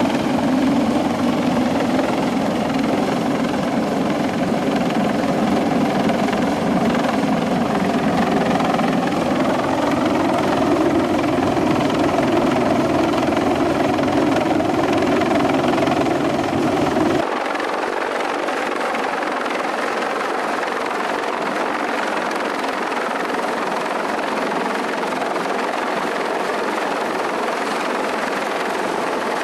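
Helicopter running, a steady rotor and turbine noise. About two-thirds of the way through it changes abruptly to a thinner, slightly quieter sound with the low rumble gone.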